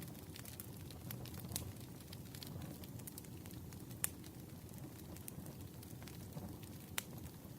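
Wood campfire burning: a low steady rush of flames with frequent sharp crackles and pops of burning logs, the loudest pops about four and seven seconds in.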